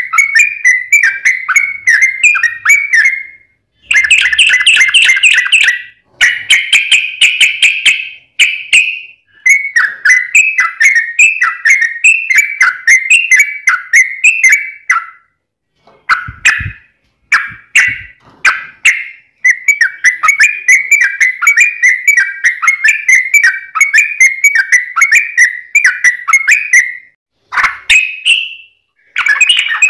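Yellow-vented bulbul singing: long, rapid rolling phrases of quick, bubbly notes repeated one after another with short pauses between them.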